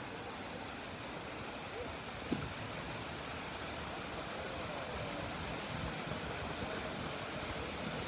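Steady rushing background noise with a single sharp click a little over two seconds in.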